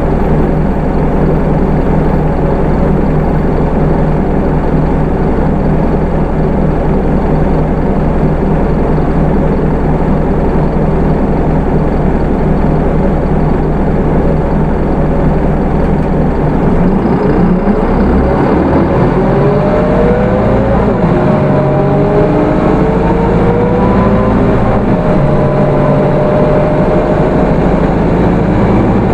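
Hino Rainbow II bus's Isuzu 4HK1 four-cylinder diesel running steadily at low revs. About 17 seconds in it pulls away, its note rising, dropping back and rising again as the automatic gearbox shifts up.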